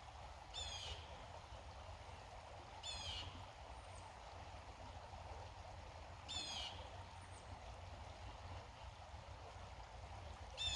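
A songbird singing a short phrase of quick, falling notes, four times at roughly three-second intervals, over the faint steady rush of a small brook.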